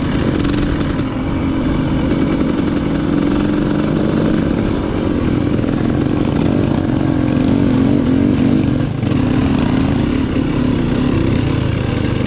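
Dirt bike engine running steadily on the trail, its pitch wavering a little, with a brief dip about nine seconds in.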